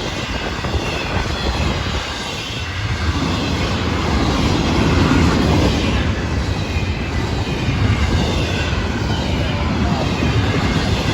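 Florida East Coast Railway intermodal freight train passing close by: a steady, loud rumble of the train rolling on the rails.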